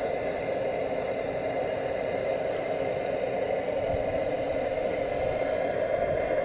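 Paraffin blowlamp burning steadily under the Lanz Bulldog's glow head, preheating it before a start, a constant even rushing sound.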